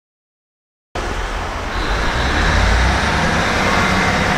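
Silence, then about a second in the sound cuts in abruptly: a freight train of loaded log wagons running past close by, with a steady heavy rumble of wheels on the rails.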